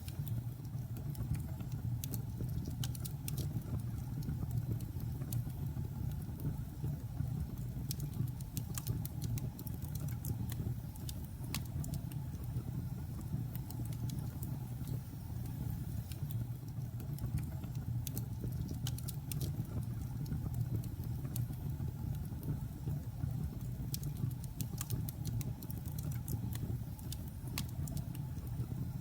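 Logs burning in a fireplace: irregular sharp crackles and pops, in clusters, over a steady low rumble of the fire.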